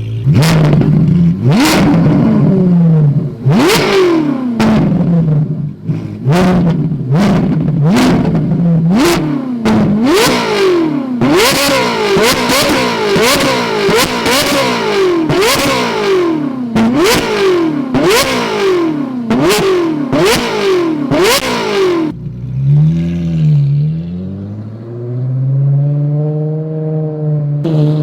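Ferrari 458's 4.5-litre V8, breathing through free-flow headers, bypass pipes and a titanium rear exhaust, revved in repeated throttle blips while standing: each rev climbs fast and falls back more slowly, with a sharp crack at the top of each. The blips come spaced at first, then about one a second, and about 22 seconds in the engine drops back to idle, the idle dipping and rising again.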